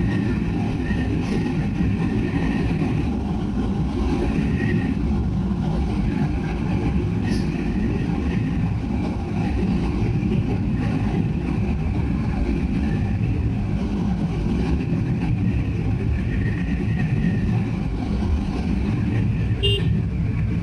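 Steady rumble of wind and engine while riding a Bajaj Pulsar NS200 motorcycle along a highway, with other vehicles' horns sounding faintly a few times.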